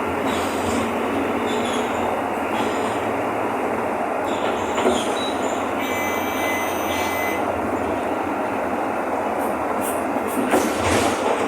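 Mercedes-Benz OF-1519 BlueTec 5 bus's diesel engine running under way, heard inside the cabin as a steady rumble with road and body noise. There are a few short rattles or knocks about five seconds in and near the end, and a thin high squeal for about a second and a half from around six seconds.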